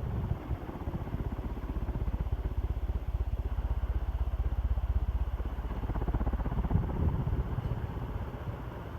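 Vintage Montgomery Ward 48-inch ceiling fan with a cast-iron motor running on high speed: a steady rush of air from its wood blades, buffeting the microphone with rapid low pulsing. The motor itself runs silent and the fan is fairly well balanced.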